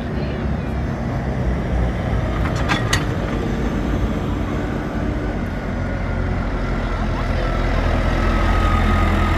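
Tractor engines running on the road as a tractor run goes by, the low rumble growing louder from about six seconds in as one comes closer. Two sharp clicks about three seconds in.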